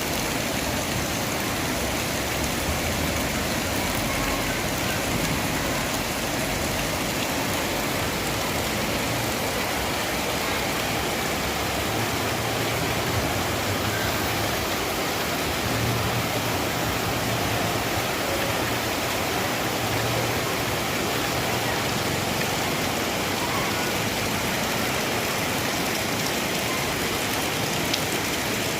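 Heavy rain pouring down in a steady, dense hiss. A low hum rises and fades for a few seconds around the middle.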